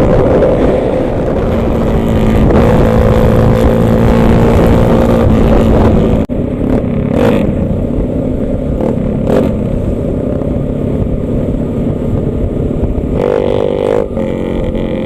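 Motorcycle engines running under way, a steady loud engine tone with rumble. The sound drops out for an instant about six seconds in, then carries on.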